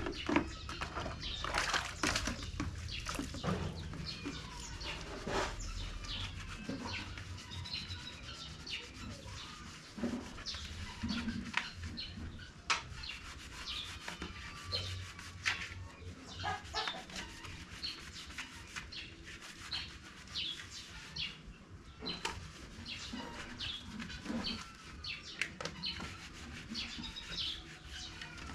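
Chickens chirping and calling in many short high notes, with scattered clicks and taps among them.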